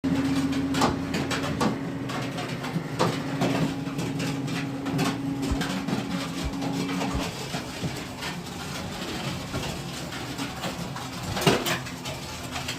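Interlocking brick-making machine running, a steady motor hum that cuts out about seven seconds in, with repeated knocks and clanks.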